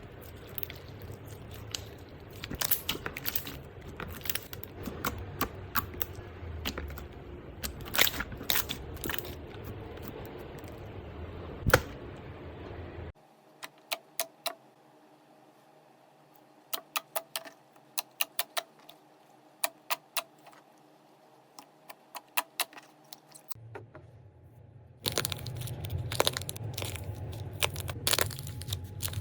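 Slime being squeezed and pressed by hand, giving off irregular sharp crackles and pops. The clicks come thick over a low hum at first, thin out and grow quieter about halfway through, then come thick again near the end.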